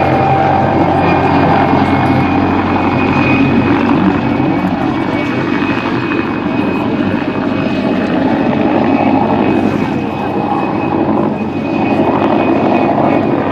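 PZL Kania helicopter in flight: its twin turboshaft engines give a steady high whine over the dense, even noise of the rotors.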